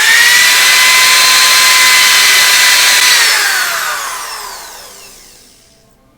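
Electric power sander switched on and running at a steady high whine as it sands a wood board's corner, then switched off about three seconds in and spinning down with falling pitch until it fades out.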